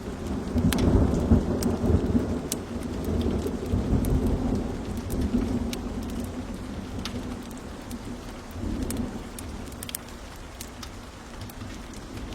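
A long peal of thunder rumbles over steady rain. It swells just after the start, is loudest a second or two in, rolls on and fades, with a smaller swell about nine seconds in. Sharp crackling pops from a fire are scattered throughout.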